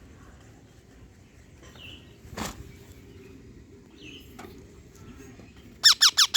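Pet parrot calling: a few faint short chirps and a single knock early on, then near the end a loud, rapid run of high squawks, each falling in pitch, about eight a second.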